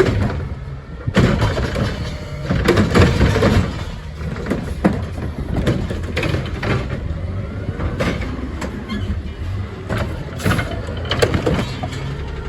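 Peterbilt 520 garbage truck's diesel engine running steadily, with repeated clanking and banging over it, the loudest from about one to three and a half seconds in.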